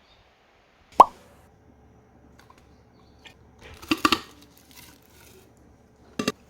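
A sharp knock about a second in, then scattered light clatter and handling noises around the middle, and a second short knock near the end.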